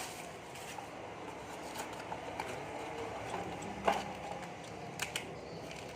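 A few sharp clicks and knocks from hand tools and engine parts being handled, over a steady background hum: one near the start, a louder one about four seconds in, and a quick pair about a second later.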